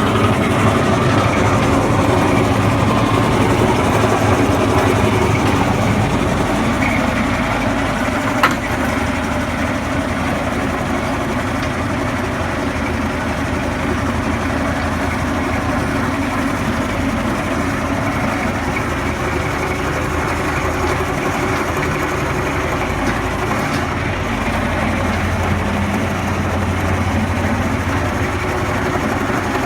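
Tractor engine running steadily, with a single sharp click about eight seconds in.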